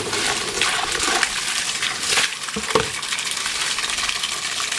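Freshwater mussels being handled in water: shells clinking against one another amid splashing and pouring water.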